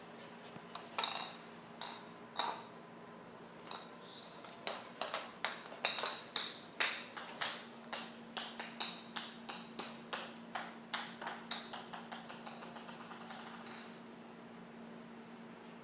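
A few separate light metallic clinks, then a quick run of about twenty more, two to three a second, each ringing briefly and fading toward the end.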